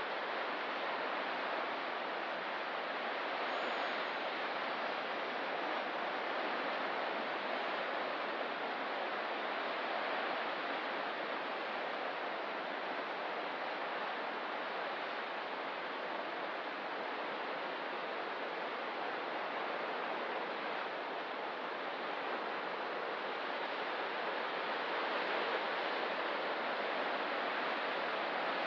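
Steady ocean surf along a rocky coast, an even wash of waves with no distinct breaks standing out.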